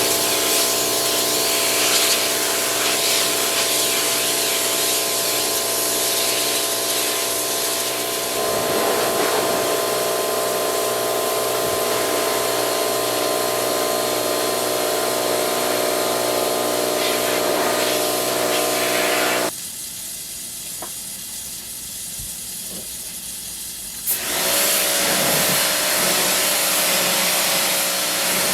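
Pressure washer running and spraying with a steady hiss over the machine's hum. About twenty seconds in it cuts out for roughly four seconds, then starts again at a slightly lower pitch.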